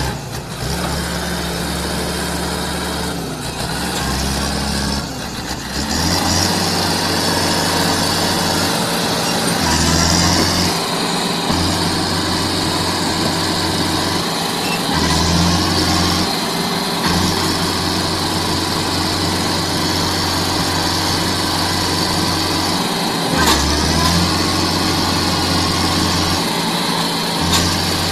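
Tractor engine running hard under load, its low note stepping up and down every second or two.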